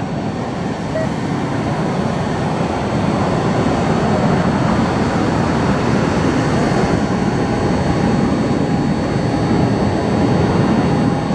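Steady rumbling noise of jet airliner engines running, with a faint steady whine joining in during the second half.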